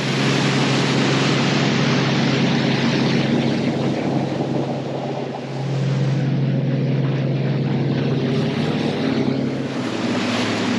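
Motorboat running at speed: a steady engine drone over the rush of water and wind, dipping slightly about five seconds in and then picking back up.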